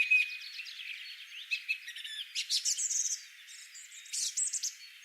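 Birds chirping: a string of short, quick high calls and trills, with no low sound beneath them.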